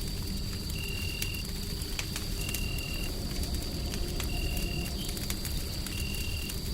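Ambience mix of a wood fire crackling with scattered small pops over a steady deep white-noise rumble. A short, high, even tone repeats about every second and a half, over a faint steady high whine.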